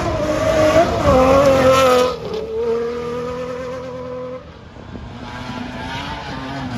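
Off-road rally car engine revving hard, loudest in the first two seconds with the pitch swinging up and down. It then holds a steady note, dies away about four and a half seconds in, and engine sound builds again near the end.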